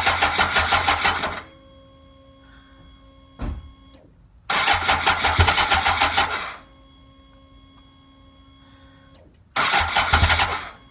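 Motorcycle's electric starter cranking the engine in three attempts, the longest about two and a half seconds and the last about a second, without the engine catching: the battery is weak, a little dead after the bike sat for a long time. A faint steady hum continues between attempts.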